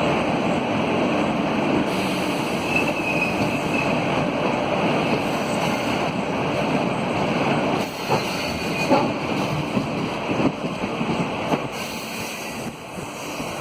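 Passenger train running, a steady rushing noise with wind buffeting the microphone; in the second half the noise drops a little and a few sharp knocks come through.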